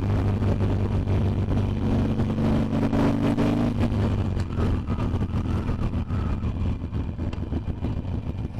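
Harley-Davidson Iron 883's air-cooled V-twin running steadily under way, easing off a little over the last few seconds.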